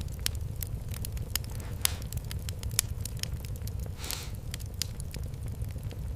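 Wood fire crackling: irregular sharp pops over a steady low rumble, with a short hiss about four seconds in.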